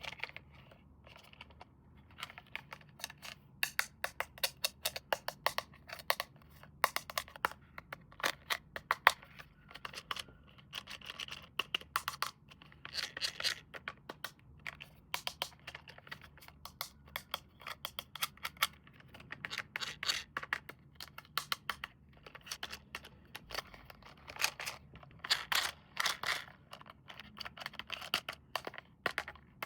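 Hands handling toy packaging, with rapid irregular crinkling, clicking and scratching of plastic and cardboard, in quick clusters throughout.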